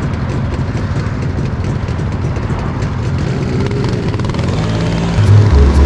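Motorcycle engine running steadily with a fast, even pulsing drone. Near the end, louder music with sustained bass notes comes in over it.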